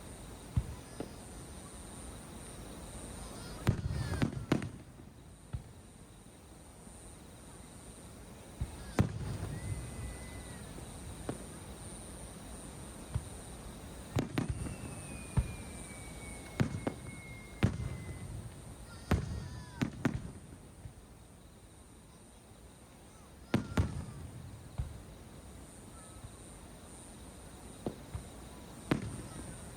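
Aerial fireworks bursting at irregular intervals: sharp bangs with low booming tails, some in quick runs of two or three. About halfway through, a thin whistle slowly falls in pitch.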